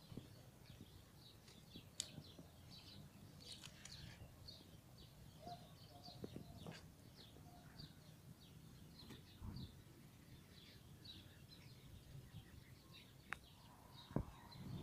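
Faint chirping of small birds: many short, high chirps repeating irregularly, with a few sharp clicks, one about two seconds in and two near the end.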